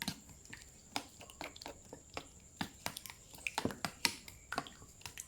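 A person chewing and smacking their lips while tasting food, a run of small irregular clicks and smacks.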